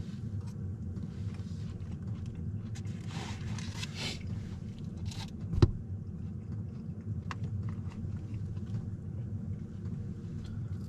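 A person chewing a roasted Anaheim pepper, with crunchy bites about three to four seconds in, over a steady low hum. A single sharp knock comes about halfway through and is the loudest sound.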